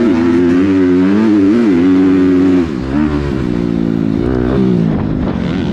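An off-road vehicle's engine running close by, its pitch rising and falling with the throttle, then dropping lower about two and a half seconds in.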